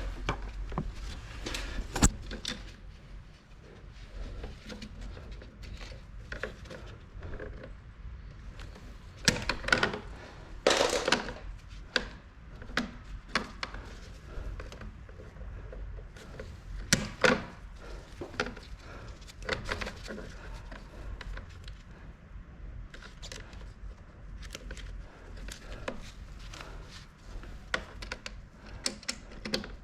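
Irregular handling noises from air conditioner installation work: scattered clicks and knocks with a short rustle, as parts and tools are moved by hand.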